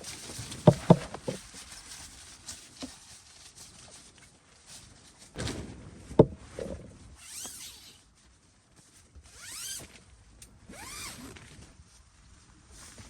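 Tent-pitching handling noises: a few sharp knocks about a second in and another about six seconds in, then several short sweeping, zip-like rustles of tent gear.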